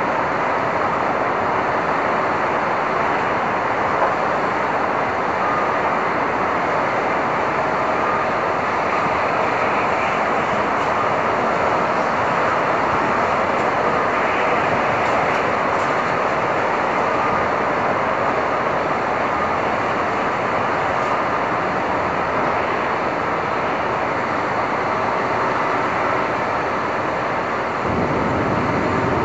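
Steady, dense city street noise: a continuous wash of traffic, with a little more low rumble near the end.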